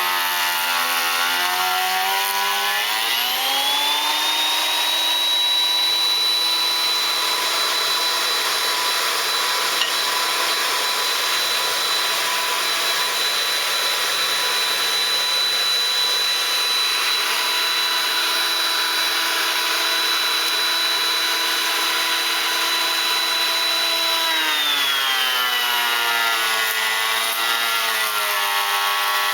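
Beam planer running through a timber beam. Its motor's pitch rises about three seconds in and holds a steady high whine for some twenty seconds. The pitch then drops and wavers near the end.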